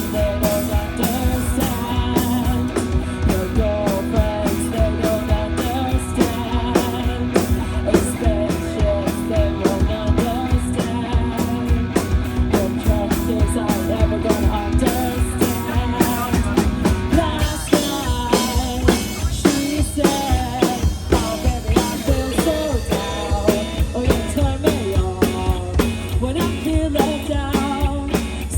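Live rock band playing a song: drum kit keeping a steady beat under electric guitar. About two-thirds of the way through, the sound grows brighter and fuller.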